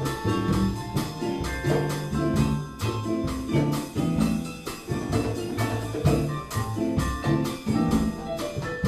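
Latin jazz band playing a cha-cha groove live: a bass line and hand percussion keeping a steady beat under held melodic notes.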